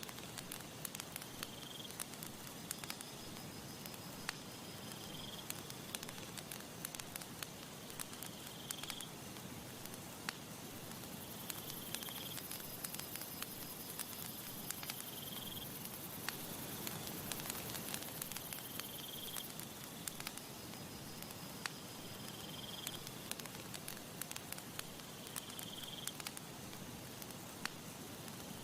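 Campfire crackling, with frequent sharp pops and snaps over a soft steady hiss. A short high chirp repeats about every three and a half seconds, and a thin high whine comes in for several seconds in the middle.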